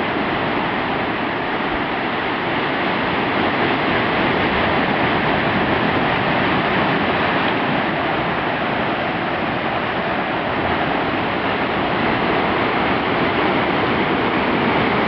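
Steady rushing noise of sea surf and wind, even throughout with no single wave break standing out.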